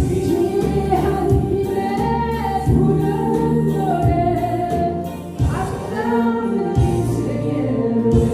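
Korean trot song sung over a backing track with a steady beat.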